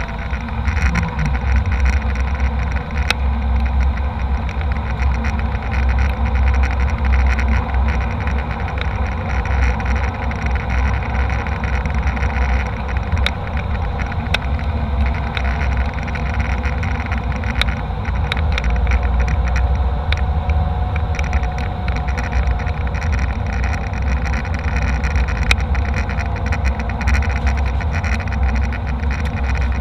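Steady cabin noise of a jet airliner in flight: a deep rumble of engine and airflow with a constant hum, and scattered light clicks and rattles throughout.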